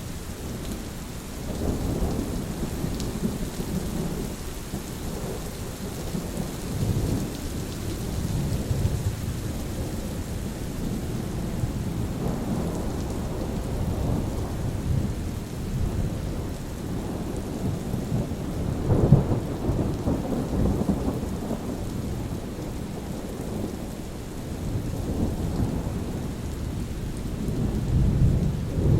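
Steady rain with thunder rolling again and again in long low rumbles, the loudest clap about two-thirds of the way through.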